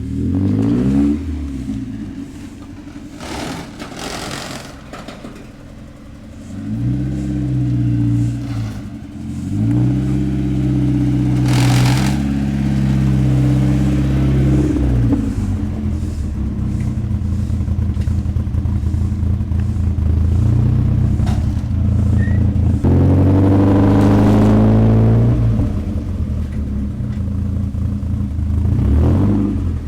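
Mazda Miata's four-cylinder engine through a freshly welded dual exhaust, revved several times from idle. The revs rise and fall back about a second in, twice between about seven and fifteen seconds, again around twenty-three seconds and once more near the end.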